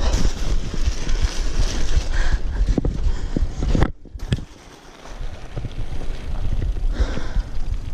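Wind buffeting the microphone over uneven rattling knocks from a bicycle being ridden over rough ground. The sound drops out sharply for about a second, about four seconds in.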